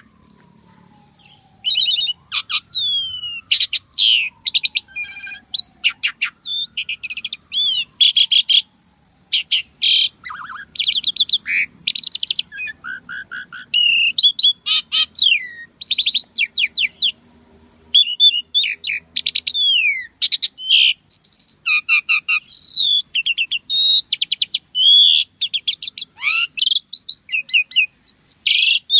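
Asian pied starling singing without pause: a rapid, varied jumble of chirps, rattles and gliding whistled notes. In the first few seconds there are also long, slowly falling lower whistles.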